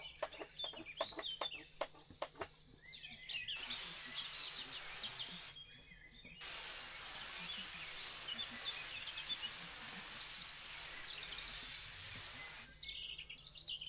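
Birds chirping and singing over steady outdoor background noise, with a run of light clicks in the first few seconds.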